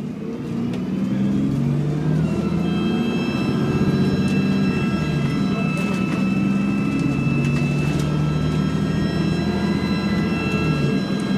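ADL Enviro 400 double-decker bus under way, its engine drone growing louder about a second in, joined shortly after by a steady high-pitched whine of several held tones.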